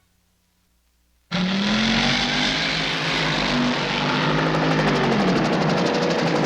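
Near silence, then a little over a second in, a helicopter's rotor and engine noise cuts in abruptly together with a car engine whose pitch rises and falls as it revs and eases off.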